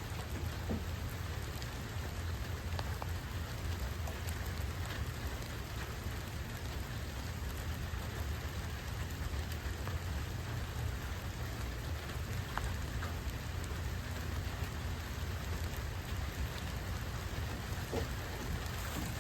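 Steady rain falling on garden plants and ground, an even hiss with a few scattered drop ticks, over a steady low rumble.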